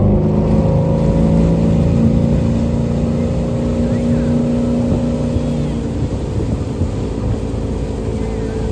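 Motorboat engine running at a steady high speed over a steady rushing noise.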